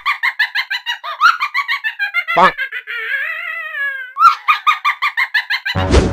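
A woman's high-pitched cackling laughter in rapid repeated bursts, about six a second, with a long falling note in the middle. Near the end it cuts to background music with a thud.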